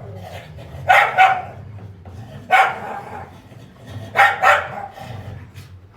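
A dog barking, about four barks, some coming in quick pairs, roughly every second and a half, over a steady low hum.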